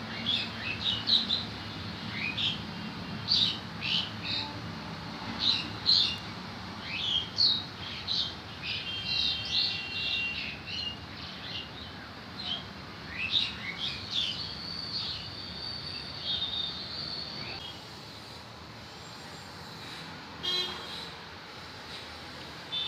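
Small birds chirping, many quick high calls in close succession, thinning out after about seventeen seconds, over a faint low steady rumble.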